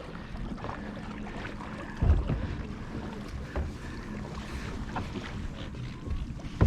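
Kayak on the water, with water sloshing and a low wind rumble on the microphone. There is a dull bump about two seconds in.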